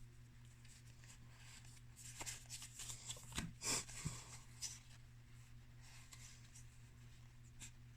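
Magic: The Gathering trading cards being handled, faint rustles and soft clicks as cards slide against each other, mostly between about two and five seconds in, over a steady low hum.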